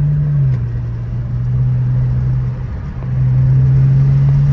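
BMW E82 coupe's engine and exhaust droning steadily while driving, heard from inside the cabin; the drone drops in pitch about half a second in, dips briefly past the middle and then picks back up.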